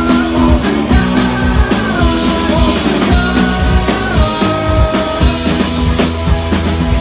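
Live rock band playing at full volume: drum kit hits under electric guitar, with singing.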